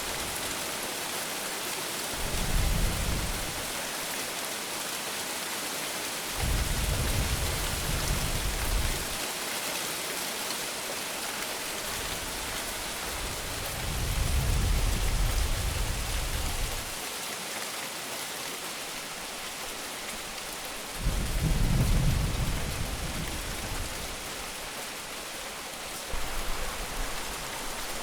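Steady rain hissing down, with about five low rumbles of thunder rolling in one after another, each lasting one to three seconds.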